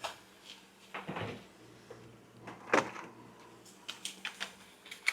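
Scattered light knocks and clicks of kitchen things being handled during cooking, the loudest about three seconds in and a run of small clicks near the end.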